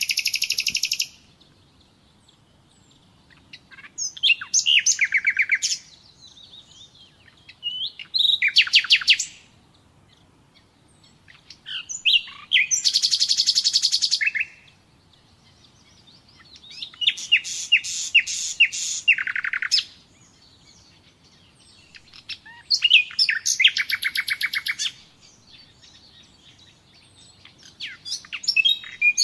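Nightingale singing: a run of separate song phrases, each one to three seconds of fast repeated notes and trills, with pauses of about two seconds between them.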